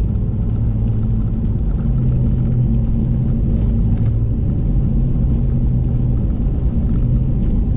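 Pickup plow truck's engine running with a steady low drone.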